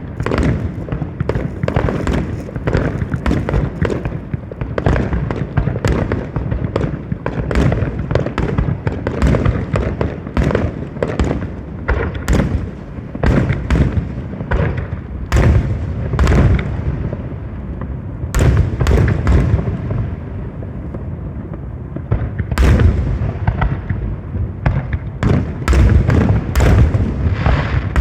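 Aerial fireworks going off in a rapid, continuous barrage of loud bangs and crackles, with a slightly thinner spell in the middle.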